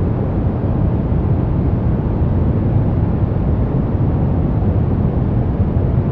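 Brown noise: a steady, even, deep rushing hiss, heaviest in the low end, with no changes.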